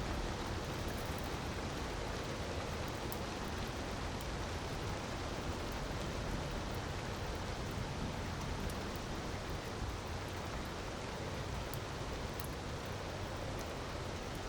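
Steady rushing noise of a waterfall, with faint scattered crackles of a wood fire on top.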